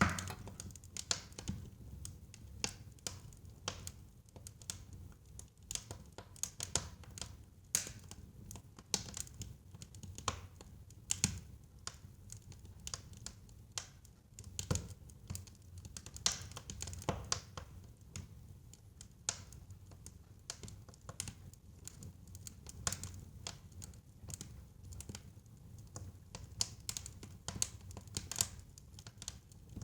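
Wood fire burning in a fireplace: irregular crackles and sharp pops from the burning logs over a low, steady rumble of flame.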